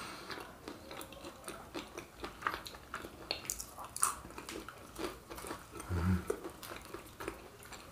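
Close-miked chewing and biting of crisp fried pastel dough filled with Nutella, heard as many small crackling clicks and wet mouth sounds. A brief low hum comes about six seconds in.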